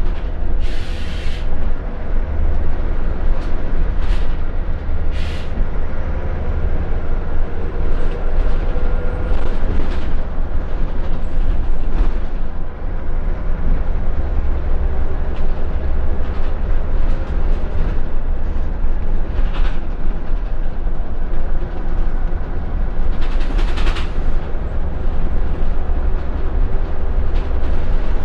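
Scania L94UB Wright Solar single-deck bus on the move, heard from inside: a steady heavy diesel engine and road drone with a whine that slowly rises and falls as it changes speed, and occasional brief rattles of the body and fittings.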